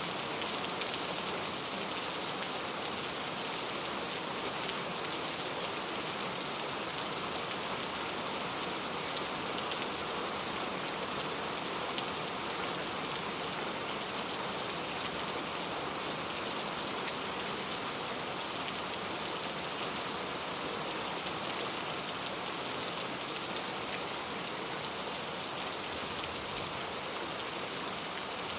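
Steady rain falling, a constant hiss with faint individual drop ticks, even in level throughout.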